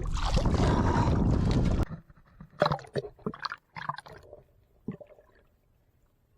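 Wind rushing over the microphone with water noise from the small boat, which cuts off abruptly about two seconds in. Then a handful of short splashes and knocks over the next few seconds.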